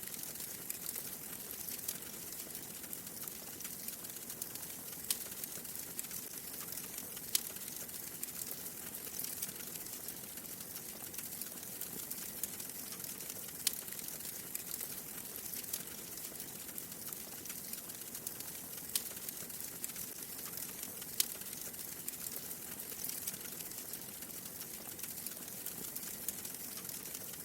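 Wood fire burning in a fireplace: a steady crackling hiss with sharp pops every second or two.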